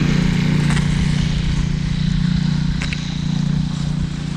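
Steady low hum and rumble of a bicycle being ridden through snow, with wind on the microphone, and two faint clicks about one and three seconds in.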